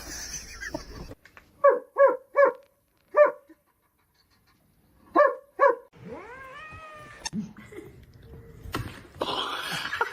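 A pet animal calling: six short, sharp pitched calls in two groups, then one long call that rises and falls in pitch. A noisier burst of sound comes near the end.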